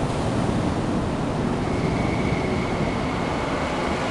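MTR SP-1900 electric multiple-unit train passing through a station platform without stopping: a steady rumble of wheels on rails and rushing air. A faint high steady tone comes in about halfway through.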